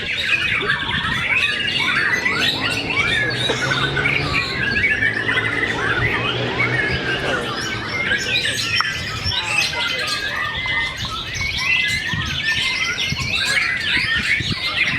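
Many caged songbirds singing at once in a contest: a dense, continuous chorus of overlapping whistles, trills and chirps.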